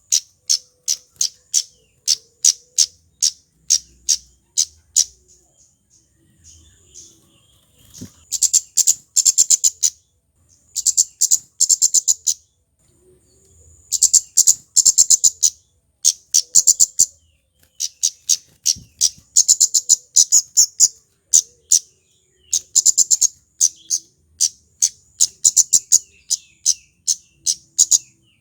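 Male kemade flowerpecker calling: loud, sharp, high chips in rapid series, several a second, in bouts with short pauses between them.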